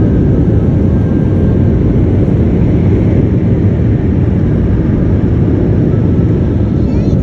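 Car wash air-dryer blowers running, a loud, steady rushing roar heard from inside the car's cabin.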